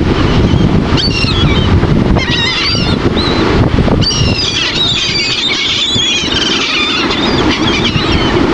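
A flock of seagulls calling, many short squawks overlapping and thickening about halfway through, over a steady low rush of wind and surf.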